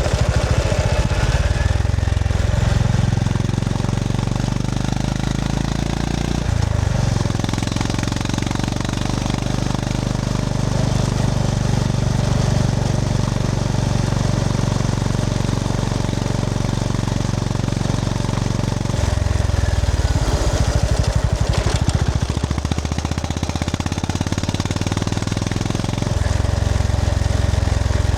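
Honda GB350S's air-cooled 348 cc single-cylinder engine running under way. Its low engine note changes three times, about 6, 19 and 26 seconds in.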